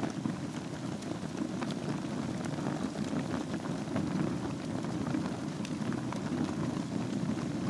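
Wood fire burning in a fireplace: a steady low rush of flames, with scattered crackles and small pops from the burning logs.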